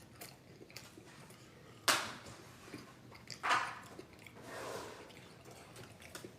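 Eating sounds while eating chicken wings: two sharp mouth smacks or bites about a second and a half apart, then a softer, longer noise and a few small clicks.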